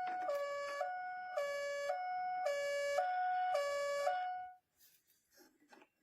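A toy school bus's electronic sound module playing a two-tone hi-lo siren, switching between two pitches about twice a second, stopping about four and a half seconds in.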